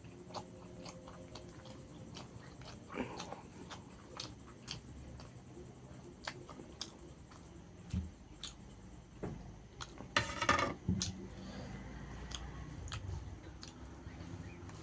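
A person chewing and eating rice with tilapia fish curry, with scattered wet mouth clicks and smacks and a louder, longer noisy burst about ten seconds in.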